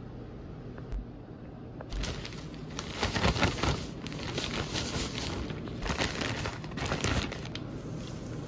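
Irregular rustling and crinkling noise that starts about two seconds in and comes in uneven bursts, loudest in the middle.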